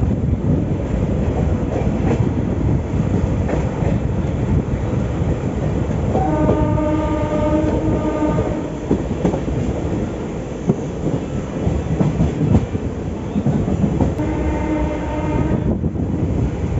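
Train running on the rails with a steady rumble and wheel clatter, and the train's horn sounding twice: a long blast about six seconds in and a shorter one near the end.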